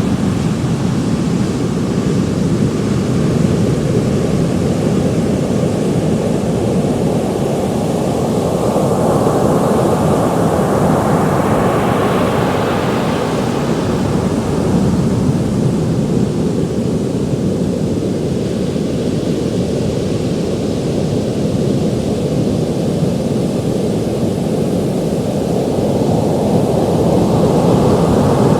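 Ocean surf: a steady rush of waves, with one wave swelling and breaking about ten seconds in and another building near the end.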